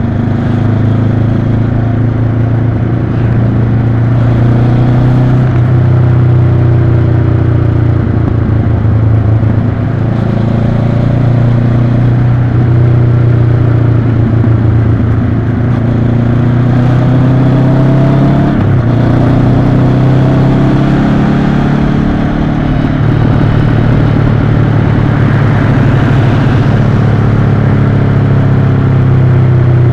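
Honda CB500X's parallel-twin engine running on the move, its pitch falling and rising several times with throttle and gear changes.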